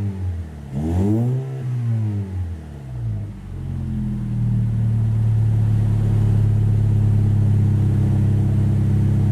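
Toyota Crown ARS220's 2.0-litre turbocharged four-cylinder engine revved through a quad-exit straight-through aftermarket muffler. There is one quick rev about a second in, then the revs climb and are held steady at a raised speed from about four seconds on.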